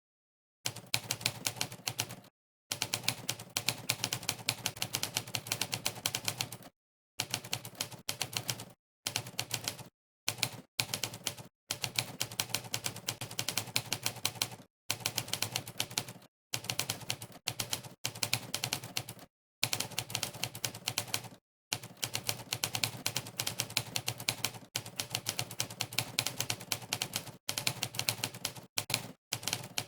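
Monkeytype's typewriter keystroke sound effect: rapid typewriter key clacks, one per keypress, in runs of a few seconds broken by short pauses of dead silence.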